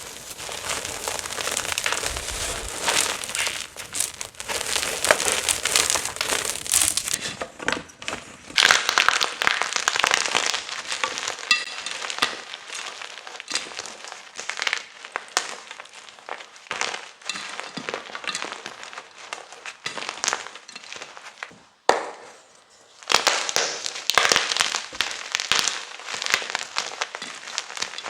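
Gym chalk being crunched and crumbled: a dense run of crisp crackling and crunching made of many small sharp cracks, with a short pause about three quarters of the way through before it resumes.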